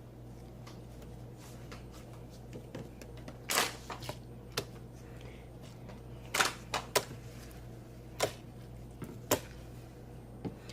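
Slime being handled and squished, giving off scattered sharp clicks and pops, about half a dozen in all, the loudest a little past the middle.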